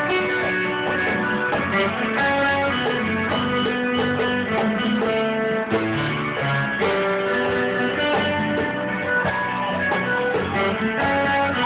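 Guitar music: plucked and strummed guitar playing a sertanejo song, with steady sustained notes over a bass line.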